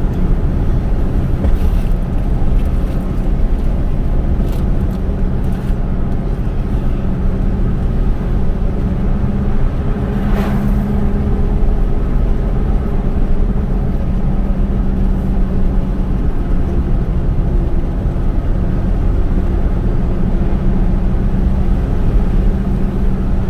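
Car driving along a road, heard from inside the cabin: a steady engine and tyre rumble, with a few light ticks in the first few seconds and a brief swish about ten seconds in.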